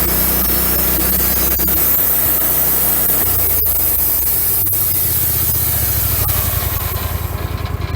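Wood-Mizer LX150 bandsaw mill running, its blade sawing through an oak log with a steady hiss over the engine hum. Near the end the sawing hiss fades and the engine carries on with a pulsing, idle-like beat.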